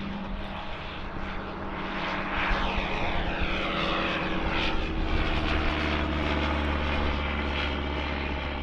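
Propeller-driven airplane's engines running as it passes, getting louder about two seconds in, with a sweeping sound that falls in pitch over the next few seconds.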